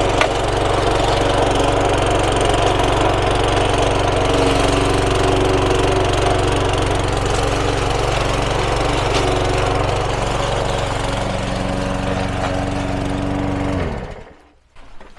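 Small petrol lawn mower engine running steadily, then shut off about fourteen seconds in, its note falling as it winds down.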